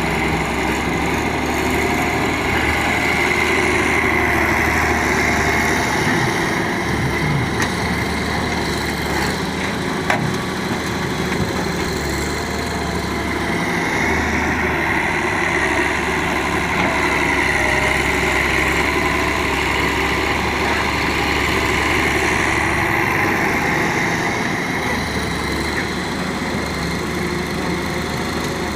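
Diesel engine of an excavator running steadily as it loads dirt into a dump truck, its note swelling and easing slowly as the load changes. A single sharp knock comes about ten seconds in.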